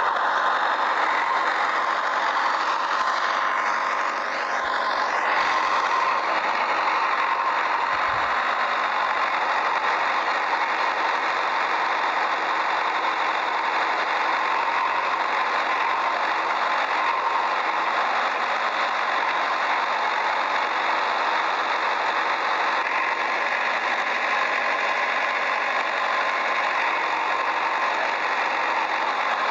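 Small motors and gearboxes of toy construction vehicles running steadily, a continuous whirring rattle.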